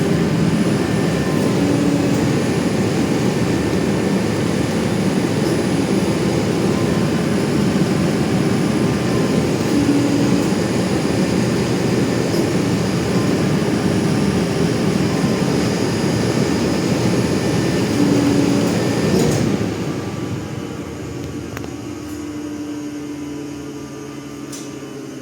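CNC machine under a CNC Pilot 4290 control running with a loud, steady noise and a short low tone about every eight seconds. About twenty seconds in the noise drops off sharply, leaving a quieter hum with two steady low tones. The machine is showing a drive controller error.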